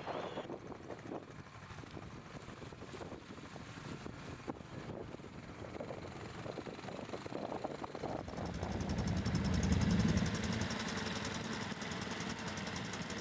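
A vehicle engine running. It swells noticeably about two-thirds of the way in, then settles to a steady run.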